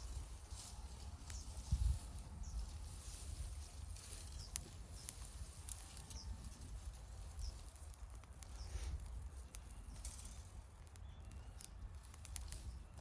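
Wood bonfire crackling, with scattered sharp pops, over a low wind rumble on the microphone.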